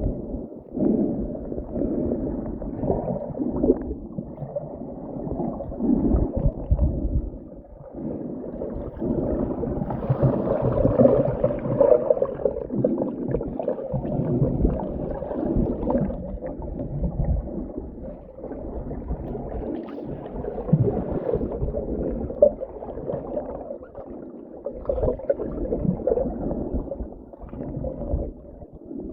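Scuba diver breathing through a regulator underwater, the exhaled bubbles gurgling in irregular surges.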